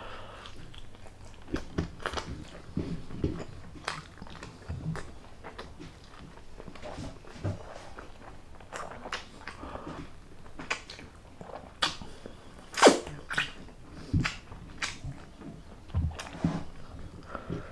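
Close-miked mouth sounds of a person eating chicken adobo off the bone: biting, chewing and wet lip smacks, coming irregularly, with one louder sharp smack about 13 seconds in.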